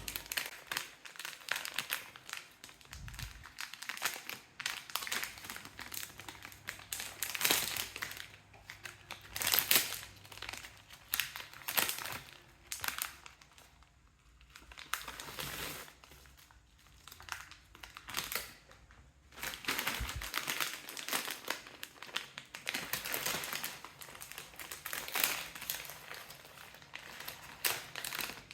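Plastic snack packets crinkling as they are handled and opened, in irregular bursts with a few short pauses.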